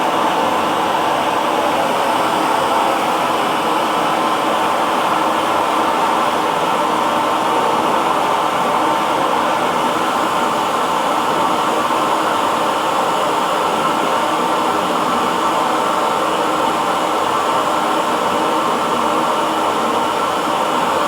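Hair dryer running steadily: a constant blowing whoosh with a faint motor hum, unchanging throughout.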